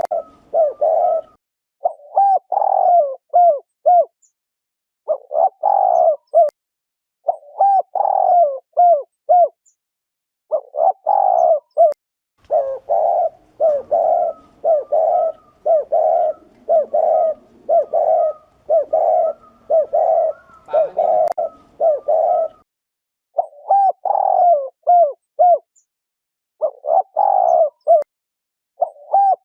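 Spotted dove giving the 'gù' coo, the call used to rouse and lure male doves. It comes in repeated short phrases of a few notes each with brief pauses, and runs on without a break through the middle.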